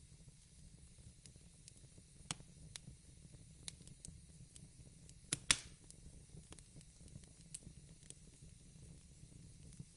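Fireplace crackling: scattered soft pops and snaps over a low steady rumble, the loudest pop about five and a half seconds in.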